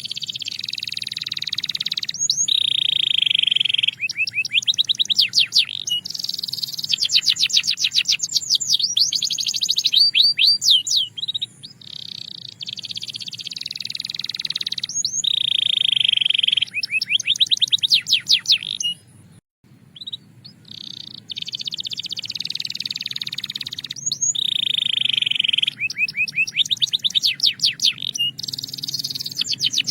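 Canary singing: long phrases of rapid trills and rolling notes, each with a sustained buzzing roll, repeating one after another with a brief break about two-thirds of the way through.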